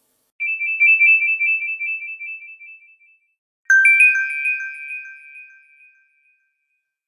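Two short ringtone or alert tones from a Nokia 6110 Navigator phone. The first is a rapid high warble that fades over about three seconds. A bright chime-like tone follows about a second later, starting sharply and fading away.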